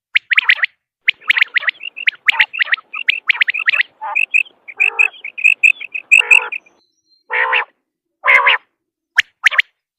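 Quail calling: quick clusters of short, sharp, high chirps, repeated over and over. A few longer, rougher calls come in about halfway through and again near the end. This is a quail call recording of the kind played to lure quail when hunting.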